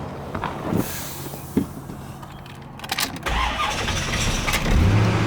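1996 Corvette LT1 5.7-litre V8 being started: a few clicks, then the starter cranks about three seconds in and the engine catches quickly and settles into a steady idle near the end.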